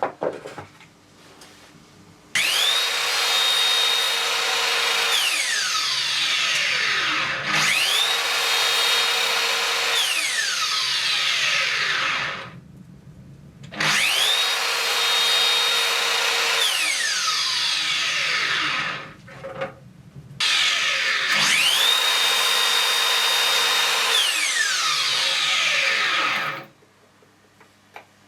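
A high-speed electric power tool cutting or grinding in four runs. Each run starts with a quick rise to a steady high whine, holds for a couple of seconds, then slides down in pitch as the motor slows, with a rough cutting noise throughout and short pauses between runs.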